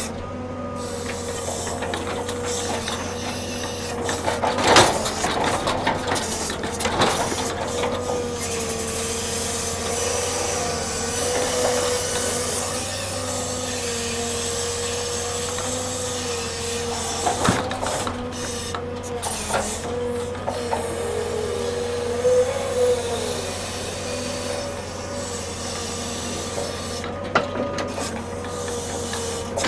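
Log-unloading machinery running with a steady whine that wavers slightly, with a few sharp knocks and clunks of wood now and then.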